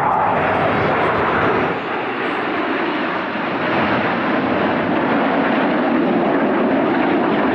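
Red Arrows formation of BAE Hawk T1 jets flying past, the jet noise of their Adour turbofan engines loud and steady.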